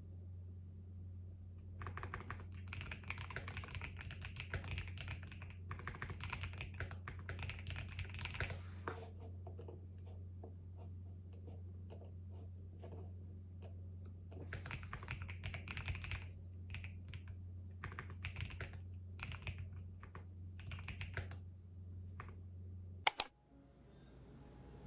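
Typing on a keyboard in two long runs of rapid keystrokes, with sparser taps between them, over a steady low hum. A single sharp click near the end is the loudest sound, and then the hum stops abruptly.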